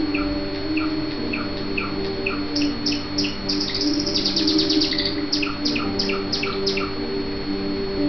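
Caged pet birds chirping: a steady run of short falling chirps about three a second, joined about two and a half seconds in by a faster, higher run of chirps that thickens around the middle and stops about a second before the end.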